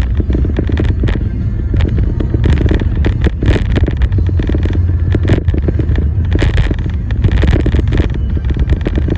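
A car driving: a steady low road rumble with irregular crackling and buffeting over it.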